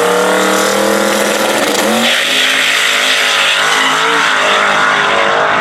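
Drag race car engine at full throttle, accelerating down the strip. Its note holds high, then breaks and drops about two seconds in, and the car's sound turns more into noise after that.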